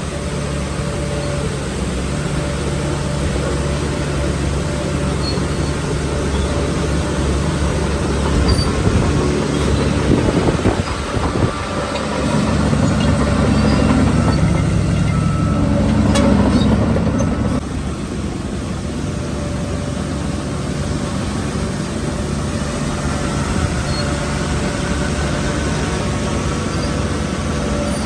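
Heavy diesel engine of earthmoving machinery running steadily, growing louder under load for about five seconds in the middle and then dropping back suddenly. A few metallic knocks come through near the middle.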